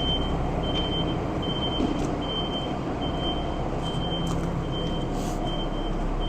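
Tractor reversing alarm beeping steadily, a short high beep a little more than once a second, over the steady running of the tractor's diesel engine as it backs into position.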